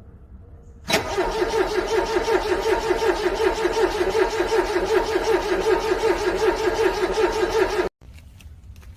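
Car engine cranking on its starter motor in freezing cold, a steady rhythmic churning that starts about a second in and runs for about seven seconds without catching, then cuts off abruptly.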